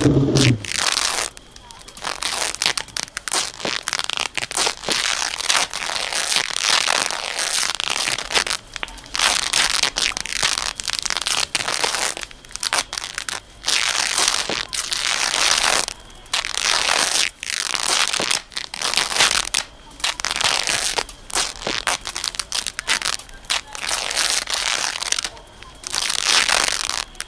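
Dense crackling, crumpling noise that comes in irregular surges of a second or two, with short drops between them.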